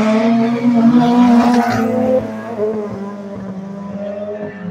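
Volkswagen Golf GTI's engine launching hard off a drag-strip start line: a loud, rising engine note for about two seconds, which then drops away as the car pulls off down the strip.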